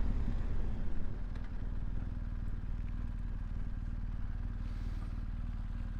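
Motorcycle engine easing off as the bike pulls up, then idling steadily for the rest of the time.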